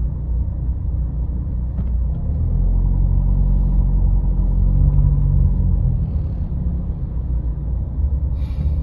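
A car being driven: low engine and road rumble that swells for a few seconds in the middle and then eases off. A short hiss comes near the end.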